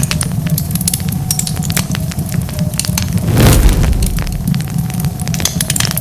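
Wood fire crackling and popping over a steady low rumble of burning. About halfway through comes a louder, deeper burst lasting about half a second.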